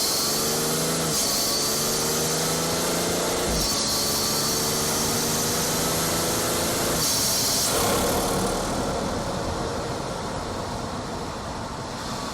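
BMW 440i's B58 turbocharged 3.0-litre inline-six heard at its front-mount intake, accelerating hard through the gears: the engine note rises in pitch and breaks at each shift, about one, three and a half and seven seconds in, with turbo and intake hiss over each pull. After about eight seconds the throttle eases off and the sound settles lower and quieter.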